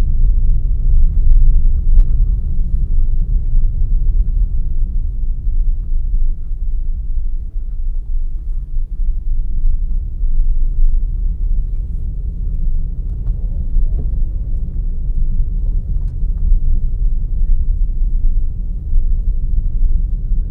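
Car driving along a forest road, heard from a car-mounted camera: a steady low rumble of engine and tyres, with a few faint clicks and knocks.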